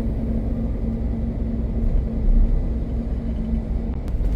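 Scania truck's diesel engine running, heard from inside the cab as a steady low rumble with a constant hum.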